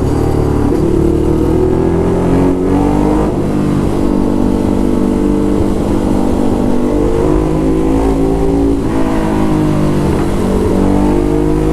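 Ducati Hypermotard SP's L-twin engine through an SC Project exhaust, accelerating with the pitch climbing. There are short breaks about two and a half and three seconds in, a long pull, then a dip near nine seconds before it rises again.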